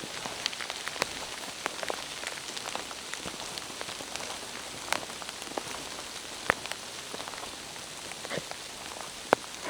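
Steady rain falling in a forest: an even hiss of rain with many scattered, sharp drop hits, one louder hit near the end.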